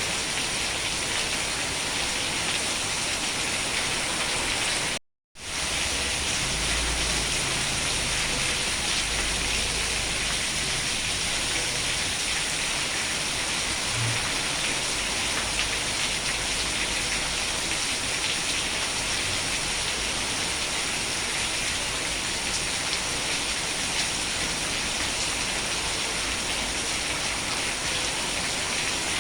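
Steady heavy rain falling. It cuts out to silence for a split second about five seconds in, then resumes with a faint low rumble for a few seconds.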